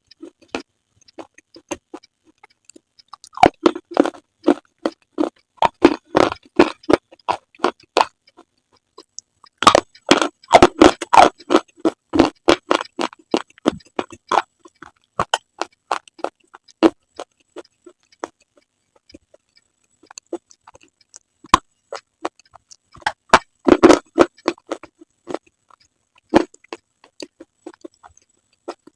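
Close-miked crunching and chewing of brittle slate, a fast run of sharp crackling bites in several dense bursts with sparser crunches and short pauses between.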